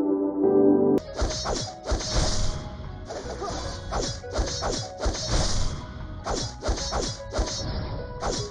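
Soft synth music that cuts off about a second in, followed by a run of a dozen or so sharp whacking hits, each with a brief hissing swish, coming irregularly about one or two a second.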